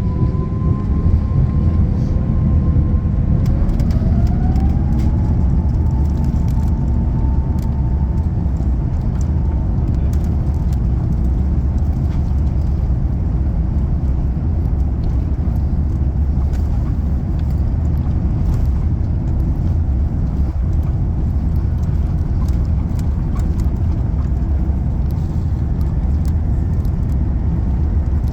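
Airbus A350-900 heard from inside the cabin during the takeoff roll. Its Rolls-Royce Trent XWB engines spool up, with their whine rising in pitch and levelling off about five seconds in. A loud, steady low rumble with light rattles follows.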